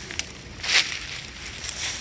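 Bonfire crackling with sharp clicks, and a short crunching snap about three quarters of a second in.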